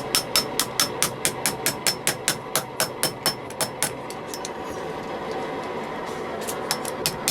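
Hand hammer striking hot ball bearing steel on an anvil while forging a chisel blade, in a quick even rhythm of about four blows a second. The hammering pauses for a couple of seconds, then starts again near the end, over a steady background hum.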